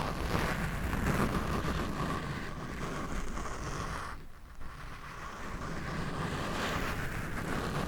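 Scratching directly on a microphone: a continuous rough rubbing noise that dips briefly about four seconds in.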